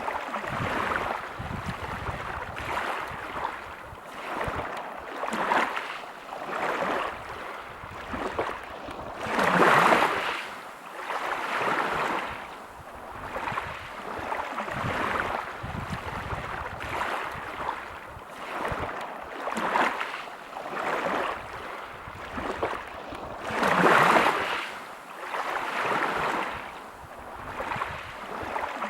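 Sea waves breaking on a pebble beach, the hiss of surf swelling and fading every second or two. Two bigger waves break, about ten seconds in and again some fourteen seconds later.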